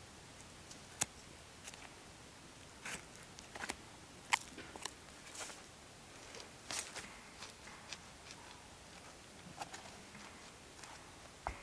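Irregular sharp clicks and snaps, scattered unevenly through a quiet background, a few louder than the rest.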